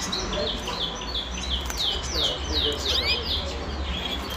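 Small cage songbird singing: fast runs of repeated high, down-slurred notes, with a couple of quick rising notes about three seconds in, over a steady low hum.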